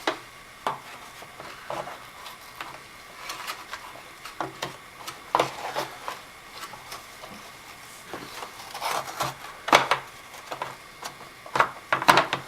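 Scattered clicks, taps and rubbing of plastic parts as the brush roll of a Dirt Devil Featherlite upright vacuum is worked into its end bracket, with a cluster of sharper clicks near the end.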